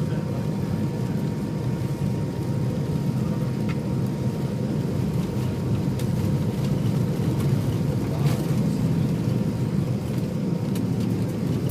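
Jet airliner engines and airflow running as a steady low rumble heard inside the passenger cabin, with a faint steady high whine over it.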